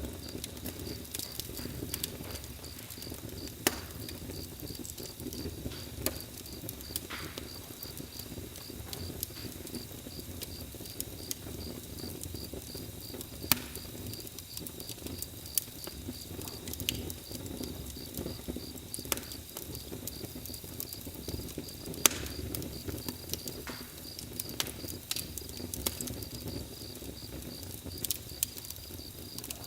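Campfire crackling, with sharp pops scattered irregularly over a low rumble, the loudest about a third of the way in and again about two-thirds in. Crickets chirp in a steady pulsing rhythm behind it.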